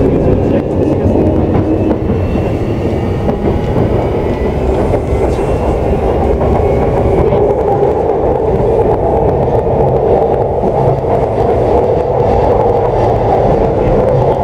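JR East E235 series electric train running, heard from inside the car: a steady rumble of wheels on rail, with a faint whine rising in pitch as it picks up speed.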